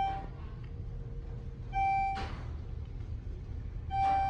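Elevator car descending with a low steady travel rumble, and a single-tone electronic chime sounding about every two seconds as it passes floors. Two chimes fall inside, one about two seconds in and one near the end.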